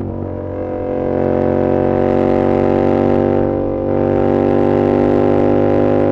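Yamaha R7's 689 cc CP2 parallel-twin engine through an SC-Project CR-T exhaust, pulling steadily under throttle with its pitch slowly rising, with a brief dip in level about three and a half seconds in.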